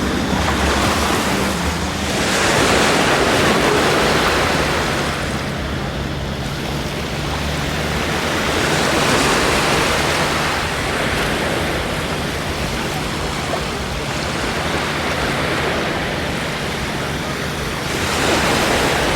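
Sea waves washing onto a sandy beach, the surf swelling and falling back every several seconds, with wind on the microphone and a low steady drone underneath.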